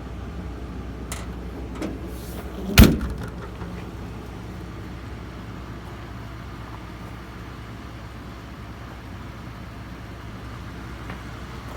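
A loud metallic bang about three seconds in as a steel service-body compartment on the truck is shut, with a few light clicks of latches or handles just before it. A steady low rumble runs underneath.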